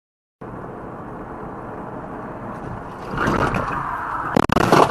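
Steady car driving noise that swells about three seconds in, then a quick cluster of loud bangs near the end: a car collision.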